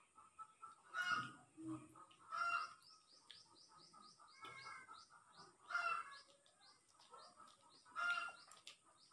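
Birds calling: four louder short calls and, between them, a quick run of high, descending chirps.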